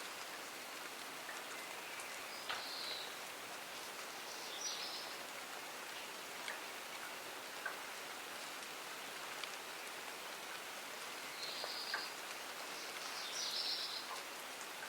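Steady rain falling in a garden, with scattered sharp drips and clicks of drops landing close by. A bird gives short high calls twice in pairs, a few seconds in and again near the end.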